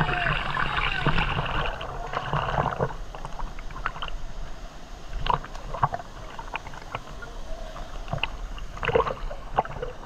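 Water sloshing and splashing as people wade in a waterfall pool: a busy stretch of splashing at first, then scattered single splashes and drips.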